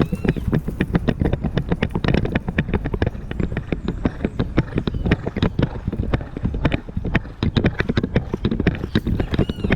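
Horse hooves clip-clopping under a rider, mixed with a rapid, constant clicking rattle of a GoPro camera knocking inside its case as it is jolted by the horse's movement.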